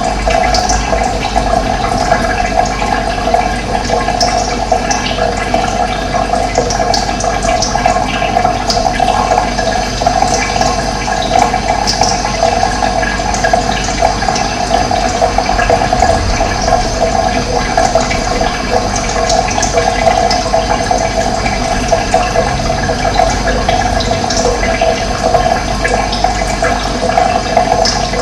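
Steady rush of running water, like a small stream or cascade, with faint short bird chirps scattered over it.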